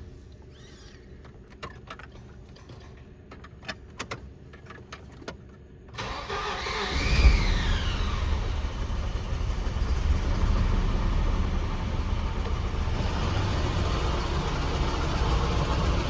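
A few faint clicks, then about six seconds in the Volvo 240 wagon's engine cranks and starts, rising briefly in revs as it catches and then idling steadily. This is its first start through a newly fitted budget eBay exhaust.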